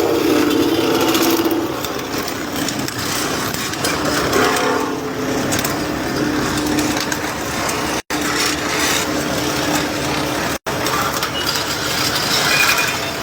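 Confiscated racing motorcycle exhausts being destroyed: continuous metal crunching and scraping over a steady machine hum, briefly cut off twice.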